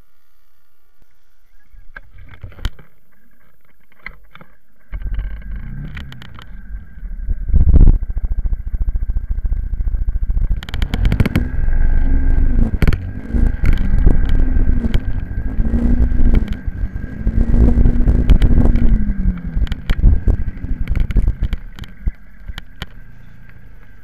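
Small racing minibike engine running close by and revved up and down several times, its pitch rising and falling in four or five swells over a heavy rumble. It quietens again near the end.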